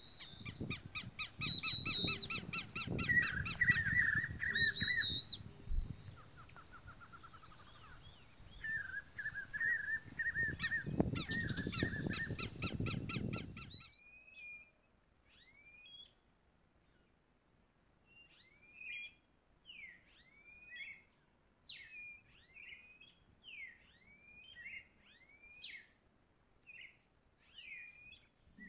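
Songbirds singing: for about the first half, loud rapid repeated song phrases over a low background rumble, then, after an abrupt change about halfway through, a single bird giving short, sharp sweeping whistled notes about once a second.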